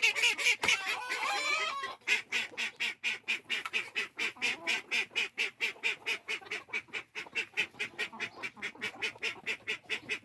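Call ducks quacking: a few wavering calls, then from about two seconds in a fast, even run of short quacks, about five a second, that keeps going.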